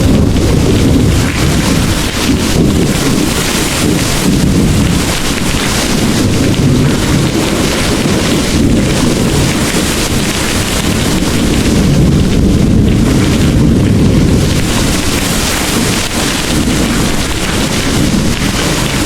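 Heavy rain pouring steadily, with a low rumble of thunder underneath that swells and eases.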